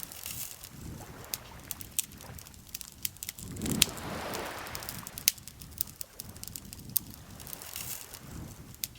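Wood campfire crackling, with frequent sharp pops and snaps over a soft background rush that swells for about a second around four seconds in.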